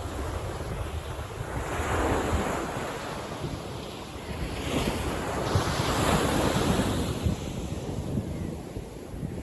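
Ocean waves breaking and washing on a beach, surging and easing every couple of seconds, with wind buffeting the microphone.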